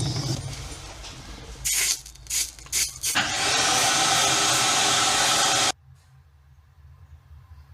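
Gas soldering torch hissing: three short bursts of hiss, then a steady hiss for about two and a half seconds that cuts off suddenly.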